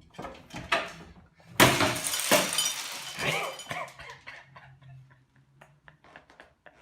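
A sudden crash of something breaking, with small pieces clinking and rattling as they settle over the next couple of seconds.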